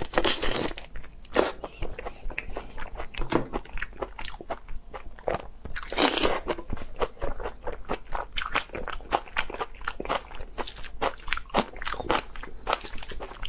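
Close-miked eating sounds: a quick run of crunchy bites and chewing. There are louder bursts right at the start and about six seconds in.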